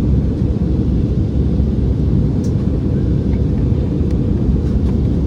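Steady low rumble inside the cabin of an Airbus A319 airliner in flight: engine and airflow noise, even and unchanging, with a couple of faint ticks.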